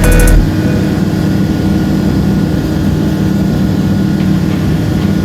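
Light aircraft's Rotax 912 flat-four engine and propeller droning steadily in flight. Loud music cuts off just after the start.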